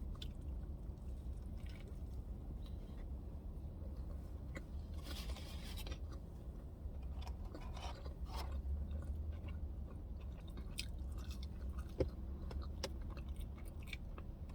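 A person chewing a mouthful of burger close to the microphone, with small wet mouth clicks and smacks over a steady low hum; a sharper click comes about twelve seconds in.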